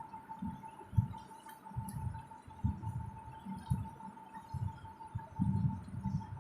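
Chewing close to the microphone: irregular low, muffled thuds about once or twice a second, over a steady thin high-pitched hum.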